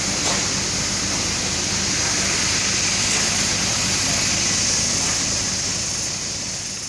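Steady roadside traffic noise, an even rushing hiss over a low rumble, beginning to fade near the end.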